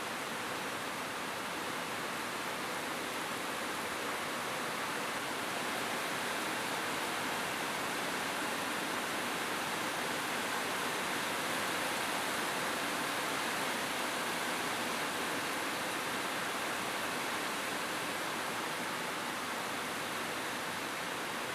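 Steady rain falling on a roof, an even hiss without distinct drops or thunder, swelling slightly in the middle.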